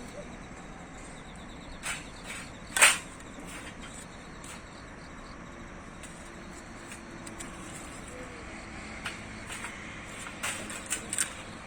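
Quiet outdoor ambience: a steady soft hiss with a faint insect-like high tone, broken by a few sharp clicks or knocks, one louder knock about three seconds in and a quick cluster of small clicks near the end.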